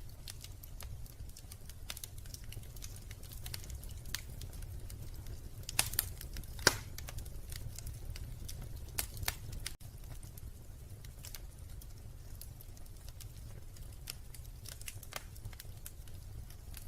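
Wood fire crackling in a fireplace: a steady low rumble of flame with scattered sharp pops and snaps, the loudest a few pops about six to seven seconds in.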